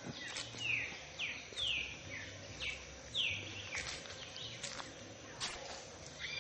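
A songbird calling a run of quick, falling whistled notes, about two a second, that stops about three and a half seconds in, followed by a few fainter calls, over a steady outdoor background hiss.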